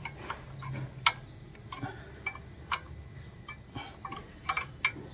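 Irregular sharp metal clicks and taps, an open spanner working the injector pipe nuts on a diesel engine as they are tightened after air bleeding.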